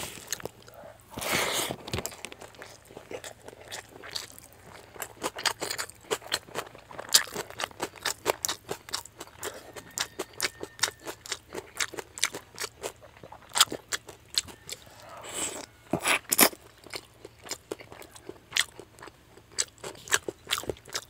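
Close-miked chewing of crispy fish head and rice: a dense, irregular run of sharp crunches and mouth clicks.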